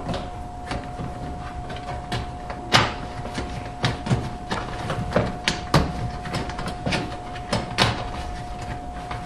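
Irregular knocks, clicks and rubbing as a rubber door gasket is pressed and worked into its channel around a dishwasher's opening, with a few sharper knocks against the tub; a steady faint tone runs underneath.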